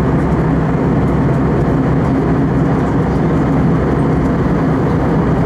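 Steady cabin noise of an Airbus A320 in cruise: a constant rush of engine and airflow noise with a low steady hum.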